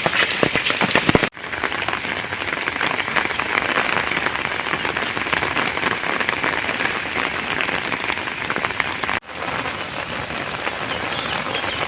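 Light rain falling, a steady hiss of many small drops, cut off abruptly for a moment twice, about a second in and near the end.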